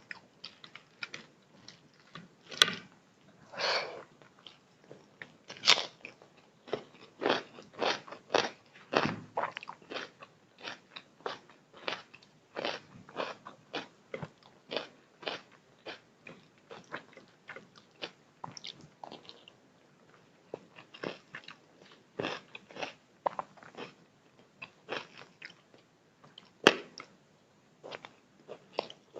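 Close-miked chewing and biting of food: an irregular run of short mouth and crunching sounds from a person eating chicken biryani and chilli chicken, with a few sharper, louder clicks near the start and once near the end.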